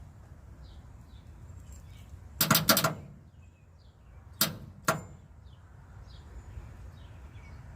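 Sharp electrical clicks from a 1965 Ford Mustang's starter solenoid and starter as 12 volts is jumped to the solenoid: a quick rattle of several clicks about two and a half seconds in, then two single clicks half a second apart. The engine does not crank: just a click from the starter, a sign the solenoid is not passing enough current to work it.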